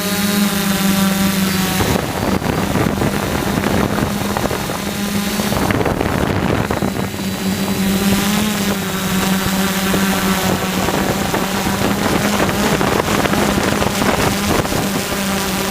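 DJI F450 quadcopter's brushless motors and propellers buzzing steadily in flight, the pitch wavering slightly as the throttle changes, with wind buffeting the onboard microphone.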